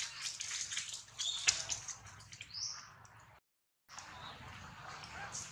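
Birds chirping in short high calls, over faint clicks and rustles, with one sharp click about a second and a half in. The sound drops out for about half a second past the middle.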